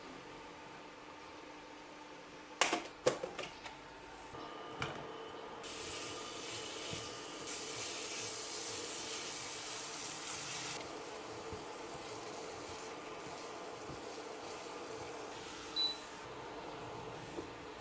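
Household sounds: a few sharp clicks and knocks about three seconds in, then a steady hiss lasting about five seconds, and a single short high beep near the end.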